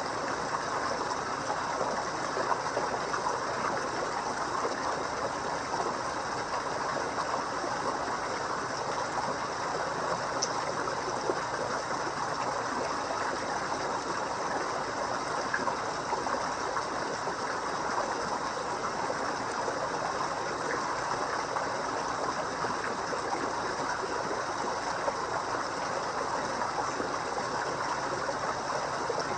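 Steady babbling and trickling of water in a koi pond.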